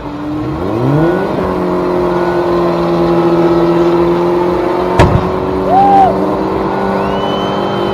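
Car engine revving up about a second in, then held at steady high revs, with a single sharp bang about five seconds in and a couple of short rev blips after it.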